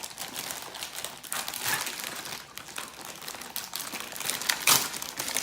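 A blind-bag toy packet crinkling and crackling as it is handled and pulled open, in irregular crackles with a louder one near the end.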